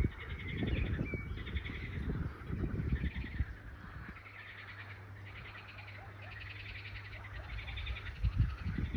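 Wind gusting against the microphone in low rumbles, easing off in the middle and picking up again near the end, while birds sing rapid, repeated chirping trills. A faint steady low hum sits underneath while the wind is calm.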